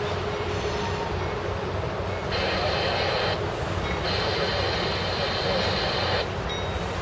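Freight train's diesel locomotives rumbling steadily as the train approaches, with two horn blasts: a short one about two seconds in and a longer one from about four seconds in.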